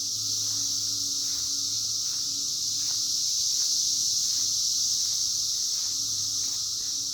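Chorus of cicadas: a steady, high-pitched droning buzz.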